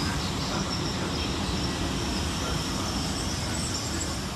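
Great Western Railway Class 802 Intercity Express train moving along the platform, a steady rumble of wheels and carriages on the rails.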